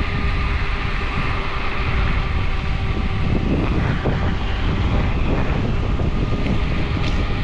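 Wind rushing over the microphone and road noise from a Fighter Supreme Ultra electric scooter riding at a steady speed, with a faint steady whine over a constant low rumble.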